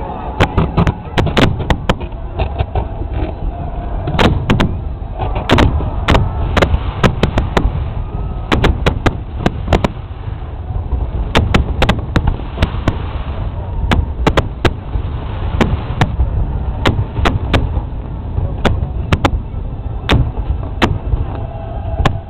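Fireworks display: shells bursting in quick succession, a few sharp bangs a second over a constant low rumble.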